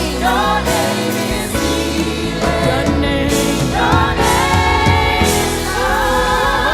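Live gospel worship music: a singer and backing vocals holding long notes over keyboard and bass.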